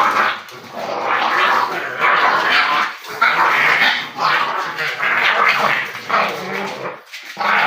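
French bulldog puppies and their mother play-fighting: a loud, near-continuous run of small dog vocalisations in bursts, dropping off briefly about three seconds in and again near the end.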